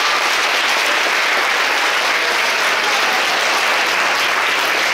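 Audience applauding steadily: a dense, even patter of many people clapping.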